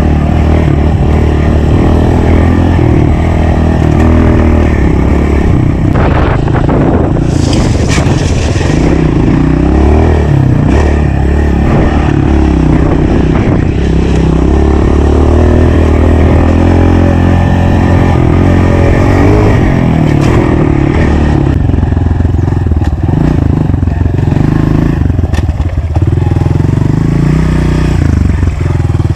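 Honda CRF125 pit bike's single-cylinder four-stroke engine under way, revving up and down as it is ridden over bumps and through turns. A brief hiss rises over the engine about seven seconds in.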